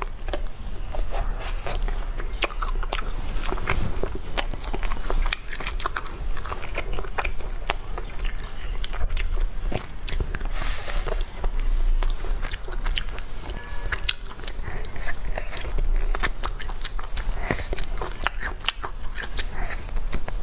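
Close-miked biting and chewing on a duck collarbone: a dense run of small crunching clicks as the meat is gnawed off the bone.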